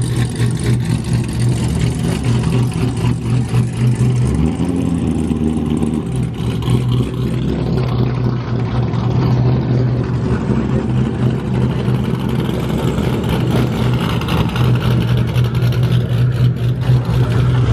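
A car engine idling loud and close, a steady deep drone, in a rough idle that shakes the whole car.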